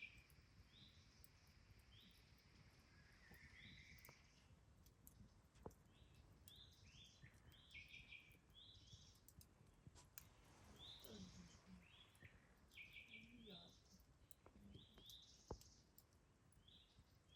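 Faint birdsong: short chirping notes repeated throughout, with a few sharp crackles from a campfire.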